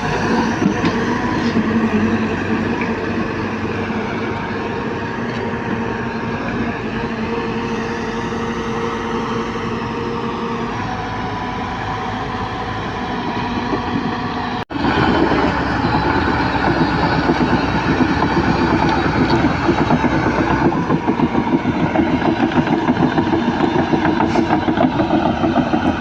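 Heavy diesel machinery running steadily at the loading site: excavator and truck engines. It cuts out abruptly about two-thirds of the way through and comes back louder, with a fast, even throb.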